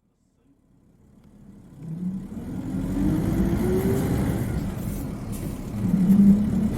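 Isuzu Cubic KC-LV380N city bus engine heard from inside the cabin, fading in and then accelerating, with a high-pitched note that rises steadily in pitch for a couple of seconds. This is the distinctive high engine sound this particular bus makes when pulling away. A louder steady tone swells briefly near the end.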